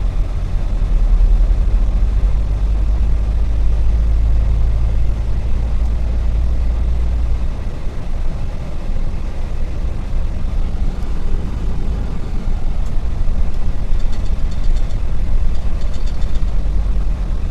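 Dongfeng truck's diesel engine and drivetrain heard from inside the cab on the move: a deep, steady low rumble that drops off noticeably about halfway through, with faint light ticking near the end.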